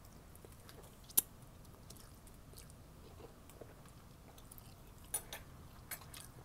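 A person quietly chewing a mouthful of noodle soup, with a few sharp clicks about a second in and again near the end.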